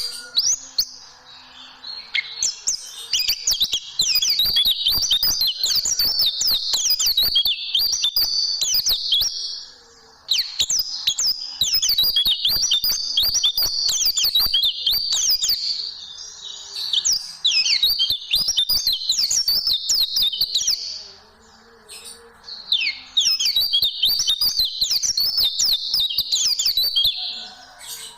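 Oriental white-eye (pleci) singing long, rapid, high chattering phrases in the 'tembakan' burst style, each lasting several seconds with short breaks between them.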